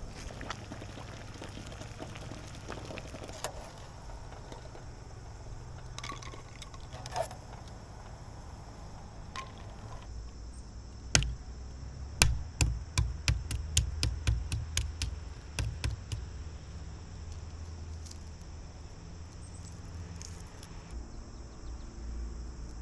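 Water pouring and splashing in a kitchen while eggs are boiled and cooled, with a few scattered knocks and, midway, a quick run of sharp clicks at about four to five a second.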